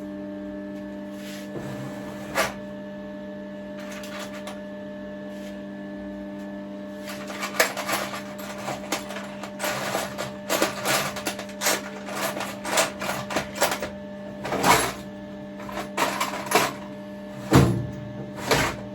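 Rummaging through a box of small metal parts: quick clinks and rattles, starting about seven seconds in and going on in bursts, over a steady background hum.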